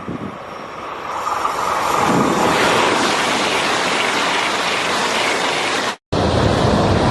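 A high-speed train rushing past: a loud, even roar of air and rail noise that builds over the first two seconds, then holds. It cuts off abruptly about six seconds in.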